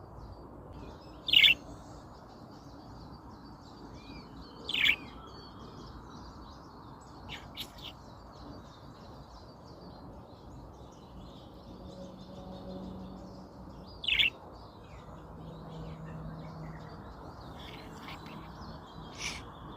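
A pet budgerigar chirping close by: three short, loud chirps, about a second in, near five seconds and at about fourteen seconds, with fainter bird calls scattered between them over a steady low rushing background.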